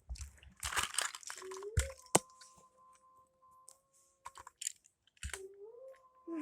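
Rustling, crunching handling noise with a single sharp click about two seconds in, over a faint steady hum that slides up in pitch a couple of times.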